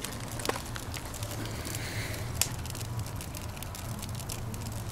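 Wood fire burning in a traditional wood-fired kiln: a steady low rumble with scattered sharp crackles.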